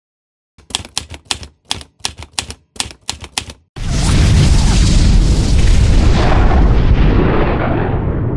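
A quick run of about a dozen typewriter-like key clacks, followed by a loud, deep boom sound effect that rumbles and slowly dies away over several seconds.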